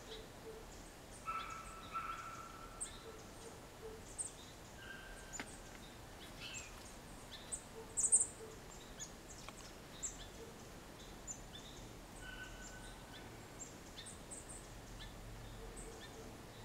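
Small songbirds chirping and calling: scattered short, high chirps, with a few longer whistled notes about a second in, around five seconds and near twelve seconds, and the loudest chirp about eight seconds in.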